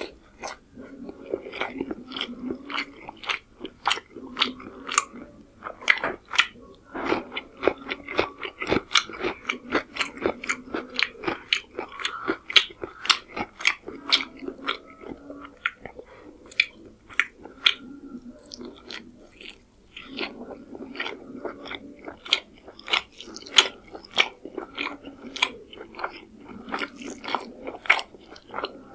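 Close-miked chewing of pulao rice and chicken curry eaten by hand: a steady run of quick mouth clicks and smacks, several a second.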